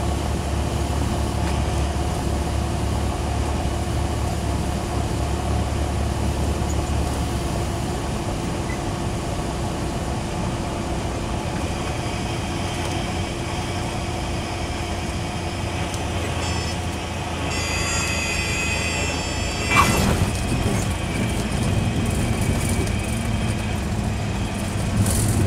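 Cessna 172SP's four-cylinder Lycoming engine and propeller heard from the cabin on final approach; the deep drone drops about seven seconds in as power comes back. Near the end a high-pitched warning tone sounds for a couple of seconds, likely the stall warning horn during the flare, then a sharp thump as the wheels touch the runway, followed by rollout rumble.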